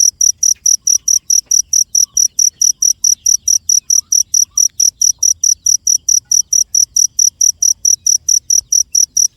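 Cricket chirping steadily, a high-pitched chirp repeated evenly about five times a second.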